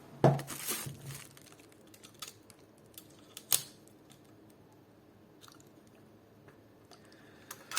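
Clicks, taps and scraping of an airsoft AK's lower handguard being worked into place on the rifle, with a sharp knock just after the start and another about halfway through.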